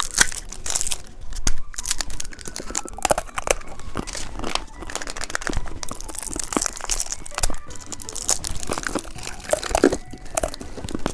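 Plastic candy packaging crinkling and crunching, with irregular crackles and some tearing as the wrappers are opened.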